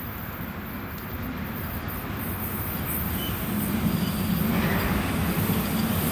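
Freight train approaching on the rails, its wheel and rail noise growing steadily louder, with a further rise about four and a half seconds in.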